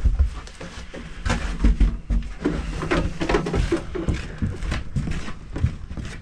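Irregular knocks, clunks and thumps of a heavy fireworks rack being lifted and shifted by hand, with footsteps.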